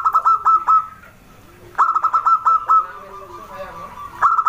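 Zebra dove (perkutut) singing: three phrases, each a quick run of six or seven clipped cooing notes, one near the start, one just before the midpoint and one near the end.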